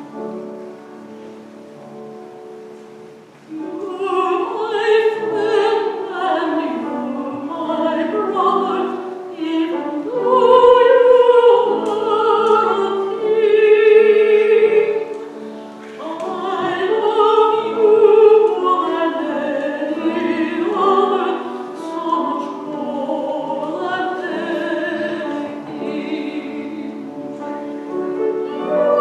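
A piano plays alone at first. About three and a half seconds in, a classical-style voice comes in and sings a slow melody with wavering pitch over the piano accompaniment.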